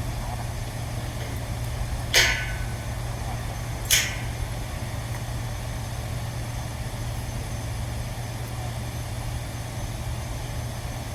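Two sharp clinks about two seconds apart, like tools or metal parts knocking together, over a steady low hum.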